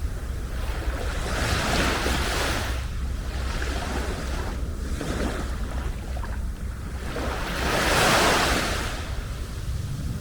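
Small sea waves breaking and washing up a beach, one hissing wash after another every two to three seconds; the largest swells up about eight seconds in.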